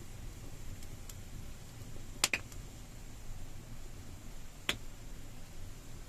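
Wood campfire crackling in a cave: a steady low rumble of burning with a few sharp pops, the loudest a quick double pop a little over two seconds in and another near five seconds.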